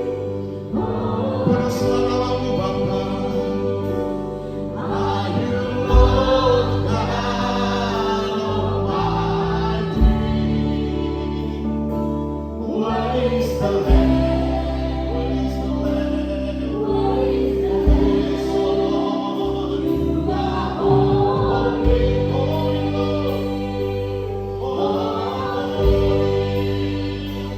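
Gospel worship music with a sung choir or congregation over sustained keyboard chords and a steady beat, with strong accents about every four seconds.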